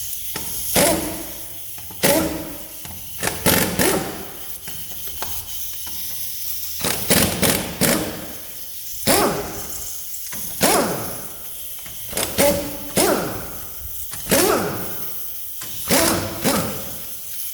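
Pneumatic impact wrench with a 19 mm socket firing in repeated short bursts with air hiss, loosening a truck's wheel lug nuts.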